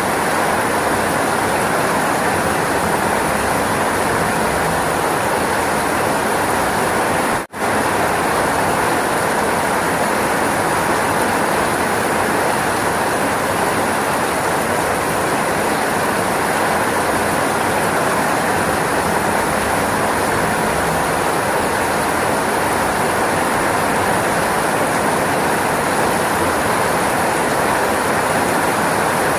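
Steady heavy rainfall, an even continuous rushing hiss, that cuts out for a split second about a quarter of the way in.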